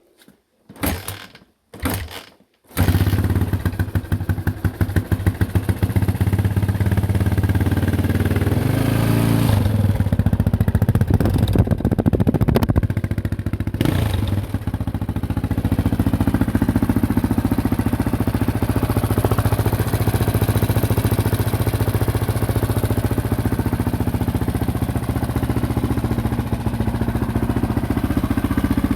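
Motorcycle engine starting: a few short bursts, then it catches about three seconds in and keeps running. It is revved a few times in the middle, then settles to a steady idle.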